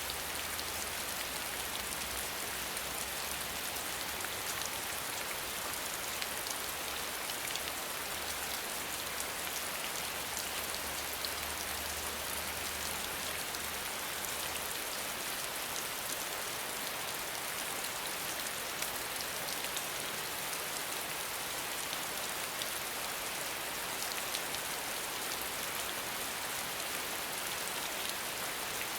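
Steady rain falling, a dense even patter of drops. A faint low hum underneath stops about halfway through.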